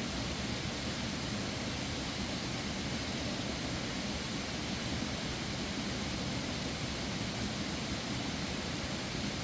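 A steady, even rushing noise with no clear events in it.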